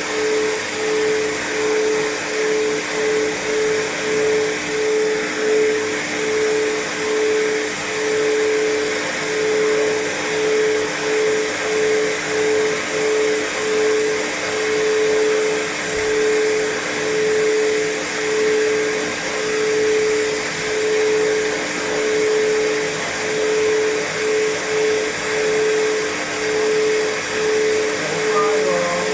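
Pet grooming blow dryer running steadily while drying a cat's fur: a constant high-powered whine with a level that wavers about once a second as the airflow moves.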